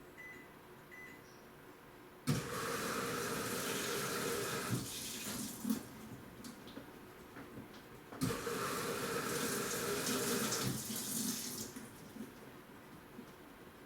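Running water that starts suddenly about two seconds in, eases off around the middle and surges again at about eight seconds, with a few knocks along the way.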